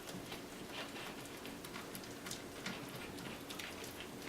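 A spoon stirring thick hot candy syrup in a mixing bowl as baking soda is worked in: faint, irregular scrapes and clicks, several a second.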